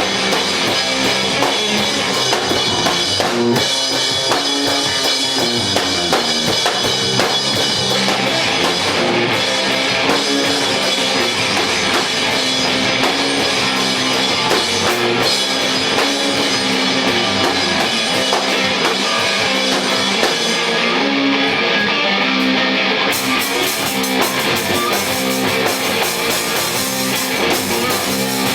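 Live punk rock band playing an instrumental passage: electric guitar over a drum kit. The cymbals drop out for a couple of seconds about two-thirds of the way through, then come back in.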